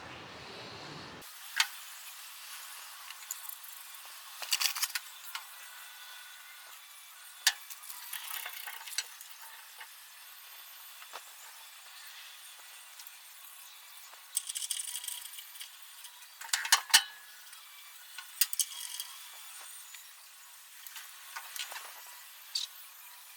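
Scattered light clinks, taps and knocks of tools and metal parts being handled, over a faint hiss; a pair of sharp knocks near the middle is the loudest.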